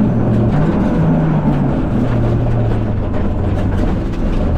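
Fiat Egea 1.4 T-Jet rally car's turbocharged four-cylinder engine, heard from inside the cabin, holding fairly steady revs and easing off slightly toward the end. Heavy road and tyre noise runs underneath.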